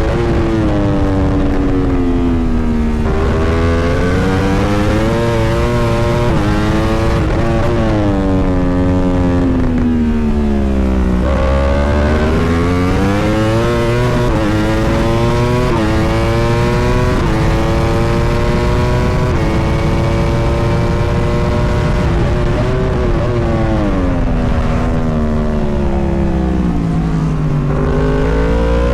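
Racing superbike engine at race pace, heard onboard. Its pitch climbs through the gears, dropping back at each upshift, then falls away in long slides under braking and downshifts, over a steady low rush of wind.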